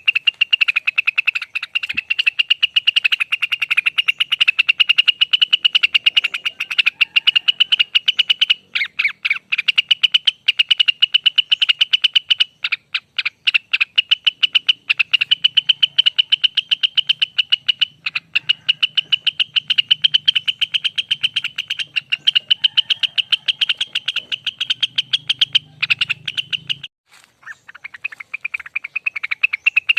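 Cucak wilis (rengganis) bird singing its long 'ropel' song: a fast, continuous trill of rapid high notes, with short breaks and a longer pause near the end.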